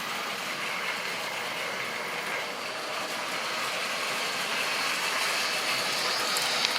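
Model railway train running along the track: a steady rolling rattle of wheels and motor that grows louder over the last couple of seconds.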